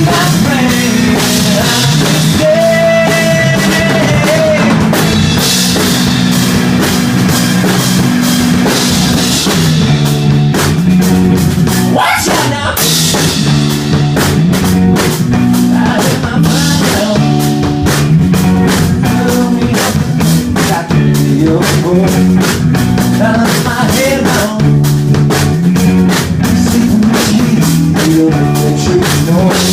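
Rock band playing a song with a steady beat on a drum kit over a repeating low-pitched line.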